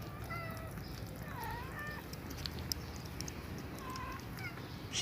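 Kitten mewing: about five short, high-pitched mews spread out, some dipping and rising in pitch, with faint scattered clicks of movement.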